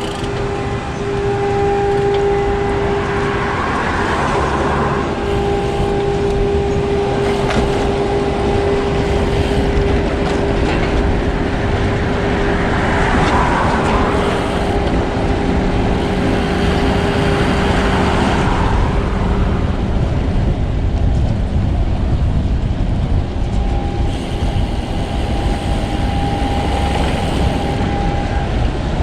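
Steady wind and road noise from riding a road bike, with a constant hum and two longer swells of passing traffic.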